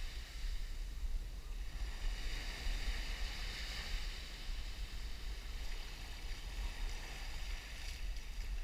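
Wind buffeting a GoPro's microphone as a low, flickering rumble, over the steady hiss of surf breaking on the beach.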